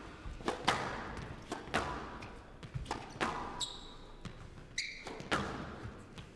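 Squash rally: the ball is struck by rackets and smacks off the court walls in a string of sharp knocks, each ringing briefly in the court, with two short squeaks of players' shoes on the court floor past the middle.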